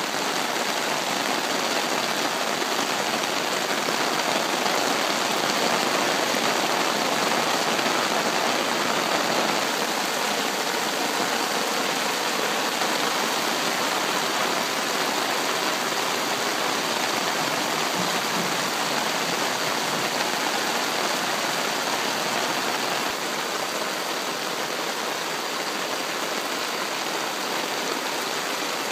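Heavy rain pouring onto a pond's surface and the grass around it, a steady hiss of countless drops that eases slightly about two-thirds of the way through.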